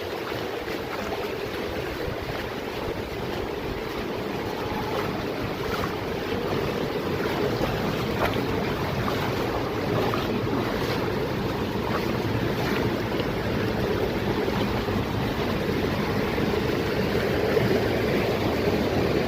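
Steady rush of flowing water, growing slightly louder, with wind buffeting the microphone.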